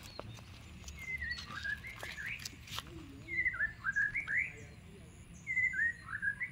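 A songbird singing the same short phrase three times, about two seconds apart, each a quick run of whistled notes that drop and then sweep upward.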